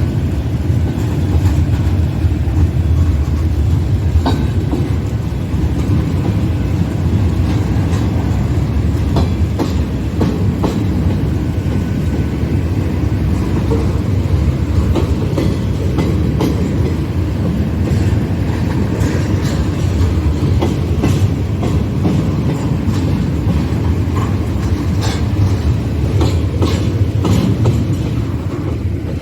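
Freight train cars rolling past at steady speed: a continuous low rumble, with scattered clicks and clacks of the wheels over the rails.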